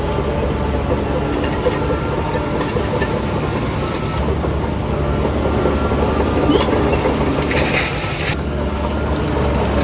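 Crawler bulldozer working: its diesel engine runs steadily under load while the steel tracks clank and rattle over the fill. A short hiss comes about three-quarters of the way through.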